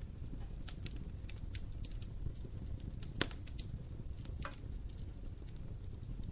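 Wood fire crackling in a fireplace: small irregular pops and snaps over a low rumble of the flames, with one sharper pop about three seconds in.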